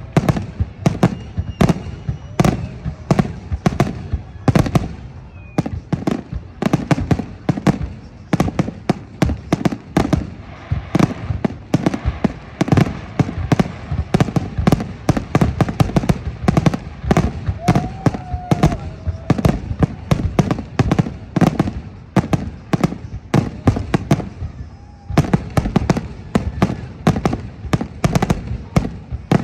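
Fireworks salute: rapid, overlapping bangs of aerial shells bursting, several a second, easing briefly about 24 seconds in before picking up again.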